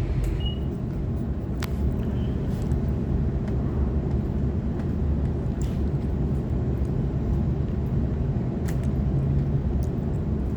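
Steady low rumble of a Waratah electric train carriage, with a few faint clicks.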